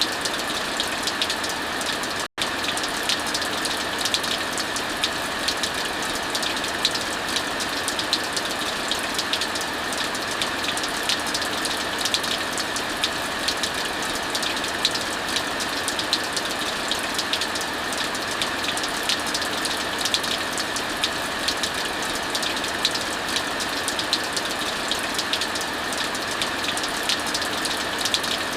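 Heavy rain falling steadily, mixed with the crackling of a wood fire: a dense, even hiss with many small sharp crackles. It cuts out for an instant about two seconds in.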